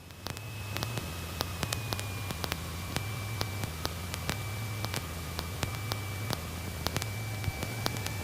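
Cessna 150/152 cockpit heard through the intercom feed: a steady low engine hum, a thin high whine and scattered static clicks.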